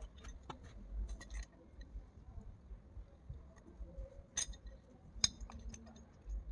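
Small hard parts clicking and clinking as threaded plumbing fittings are handled and fitted together, with two sharper clinks a little past halfway.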